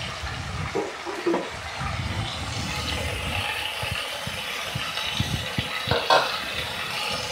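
Steady sizzling hiss of ash gourd pieces frying in mustard oil, with a few light clinks of a metal spatula and pan lid, mostly about five to six seconds in.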